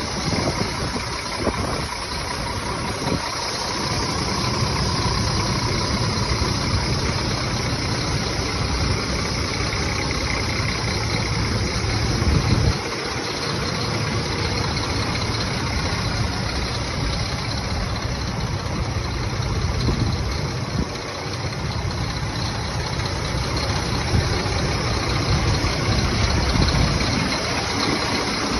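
Scania diesel engine idling steadily, dipping briefly about halfway through.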